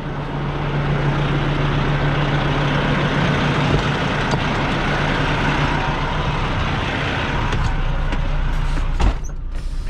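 Semi truck's diesel engine running, heard from inside the cab as a steady low hum under a wash of noise. About nine seconds in there is a sharp click, after which the higher noise drops away.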